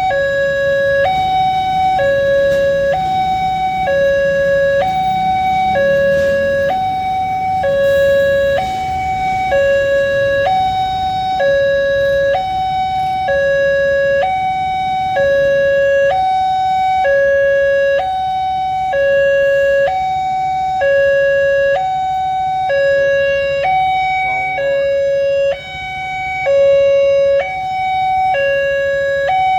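Railway level-crossing warning alarm: an electronic two-tone hi-lo signal, each tone held about a second, repeating steadily, the sign that a train is approaching and the barriers are closing. A low traffic rumble runs underneath.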